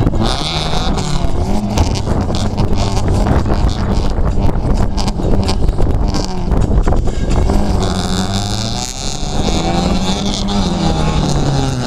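Rally hatchback's engine revving hard on a dirt course, its pitch rising and falling with throttle and gear changes.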